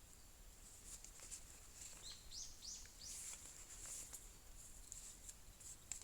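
Faint bird calls: three or four short, high, curved chirps in quick succession about two to three and a half seconds in, among light scattered clicks.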